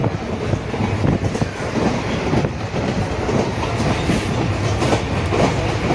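Passenger train coach in motion, heard from inside: a steady low rumble of the running train with the wheels and carriage clattering and rattling irregularly.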